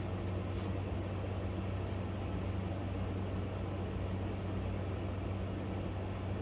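Crickets chirping in a steady, evenly pulsing high trill, the feeder crickets loose in the tarantula's enclosure, over a steady low electrical hum.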